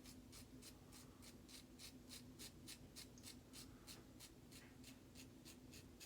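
Autostrop safety razor scraping through lathered stubble in short, quick strokes, about three or four a second.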